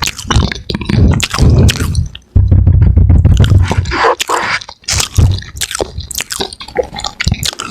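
Close-miked chewing and crunching of fries and fish, with many sharp crunches and mouth clicks.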